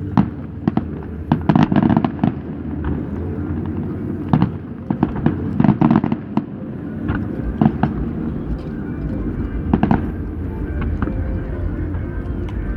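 Fireworks shells bursting overhead in quick volleys of sharp bangs, with heavier clusters about a second and a half in and again around the middle, over a steady low hum.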